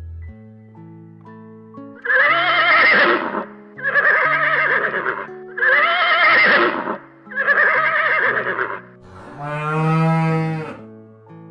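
An animal calling five times in a row over soft background music. The first four calls are wavering and about a second long each, with short gaps between them. The fifth, near the end, is lower and fuller.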